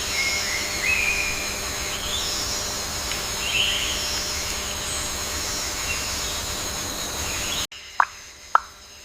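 Outdoor ambience: birds chirping briefly now and then over a steady high-pitched hiss. About three-quarters of the way through it cuts abruptly to water drops plopping, about two a second.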